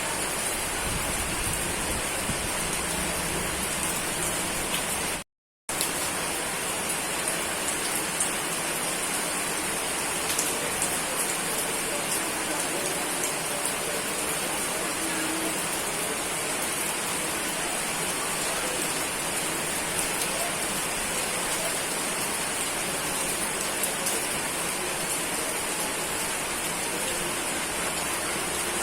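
Steady rainfall: a dense, even hiss of rain with scattered individual drop ticks. About five seconds in, the sound cuts out completely for about half a second, then resumes.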